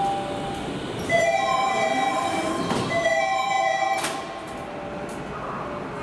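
Toei Mita Line platform departure sign: a short electronic chime melody of about three seconds, over the rumble of a subway train standing at the platform. The melody cuts off abruptly with a click. This is the departure sign the line used before 2023.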